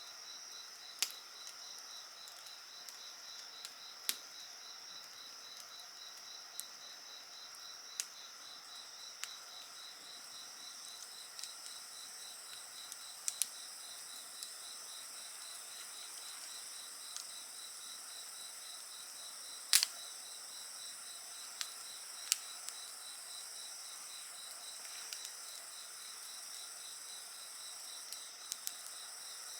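Insects chirping steadily in a high chorus, one of them in a rapid, even pulsing trill, over a wood fire that crackles with scattered sharp pops, the loudest pop about two-thirds of the way through.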